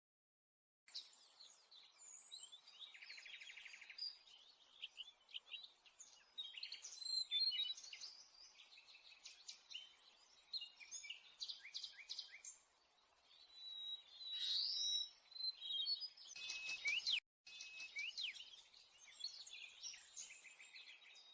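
Sulawesi myzomela (Myzomela chloroptera) calling: a run of short, high chirps and quick rising and falling notes, with a buzzy rattle about three seconds in.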